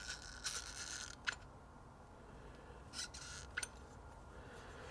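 Faint handling of small greased parts: a new piston and spring being pushed into a motorcycle brake master cylinder's bore, with light scrapes and a few small clicks, a sharp one just over a second in and more around three seconds in.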